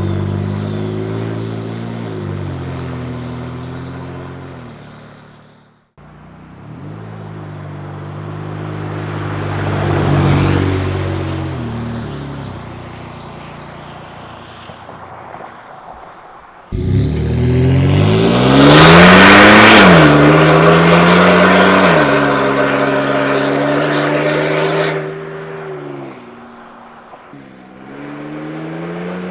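A 2011 Ford F-150 EcoBoost's 3.5-litre twin-turbo V6 heard through an MBRP turbo-back exhaust, in several edited clips. The sound swells and fades as the truck drives past. Near two-thirds in comes the loudest run: the revs climb, drop at a gear change, then hold steady.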